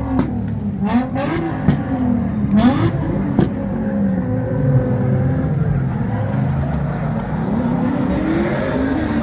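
Car engines revving hard, their pitch repeatedly climbing and dropping over one another, with several sharp cracks in the first few seconds.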